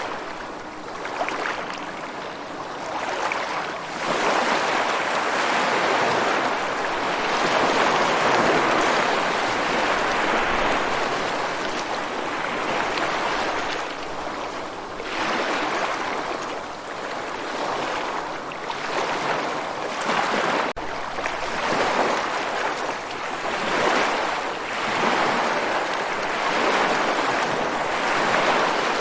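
Ocean surf: waves washing in and drawing back as a steady rush that swells and fades every several seconds, with a brief dropout about two-thirds of the way through.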